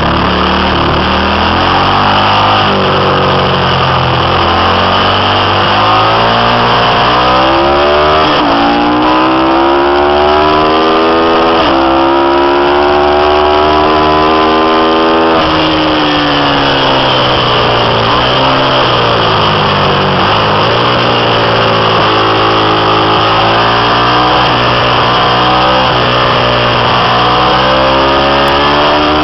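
Ducati 750 V-twin racing engine under load on track laps, revs climbing steadily for several seconds, dropping sharply about halfway through, then rising and falling again. The engine is being tested with a Nippon Denso HT coil and iridium spark plug that were breaking down intermittently.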